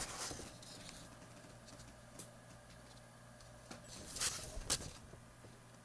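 Quiet room with a faint steady hum, broken by a few soft handling clicks and rustles, clustered about four to five seconds in.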